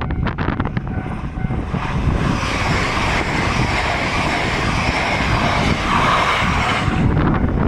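E3-series Yamagata Shinkansen train passing the level crossing with a broad rush of wheel and air noise that builds about a second in and cuts off near the end. The crossing's warning bell rings in quick repeated strokes at the start and again after the train has gone by, with wind rumbling on the microphone throughout.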